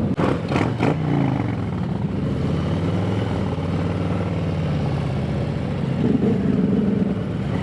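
Motorcycle engines running as the riders pull away. There is a steady, pitched engine note, a few sharp knocks in the first second, and the note grows louder for a moment about six seconds in.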